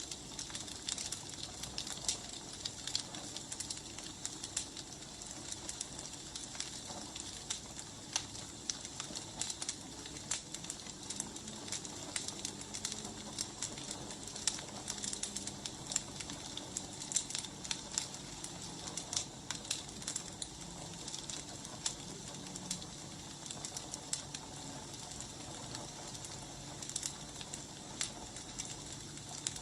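Wood fire burning: logs crackling and popping irregularly over a steady hiss.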